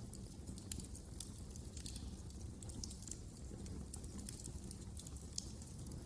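Wood fire crackling: frequent small, sharp, irregular pops over a low, steady rumble.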